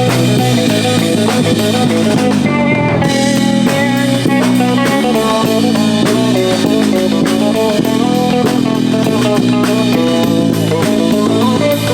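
Rock band playing with electric guitar and drum kit.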